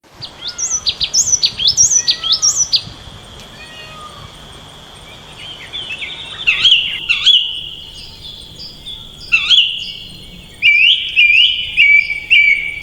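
Songbirds singing: a quick run of sharp, high chirps about three a second for the first three seconds, then after a short lull, scattered groups of short sliding notes.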